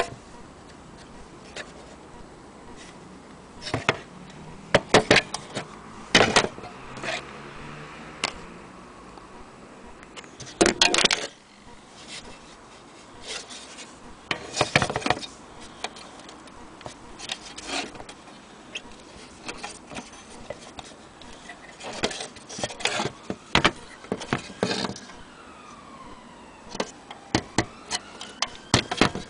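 Scattered clicks, clanks and knocks of an old metal lantern being handled, some in quick clusters. From about 25 seconds in, a siren wails in the background, rising and falling in pitch.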